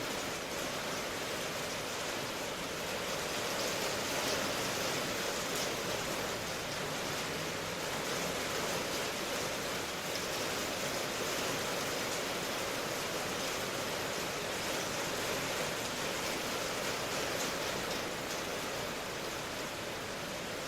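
Steady, even rain noise with no separate drops or events.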